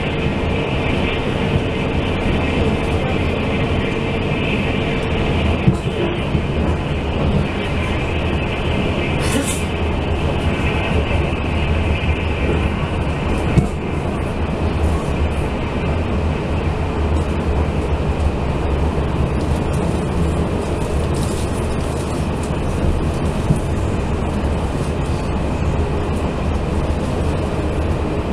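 Running noise inside a TRA Fu-Hsing express passenger car at speed: a steady rumble of wheels on the rails with a constant hum over it, and an occasional short sharp click.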